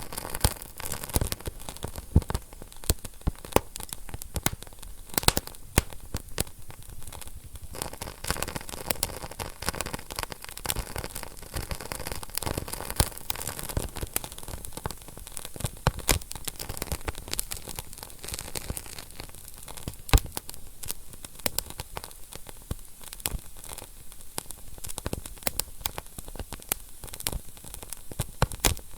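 Wood fire burning in a fireplace: irregular sharp crackles and pops over a steady hiss, with an occasional louder pop.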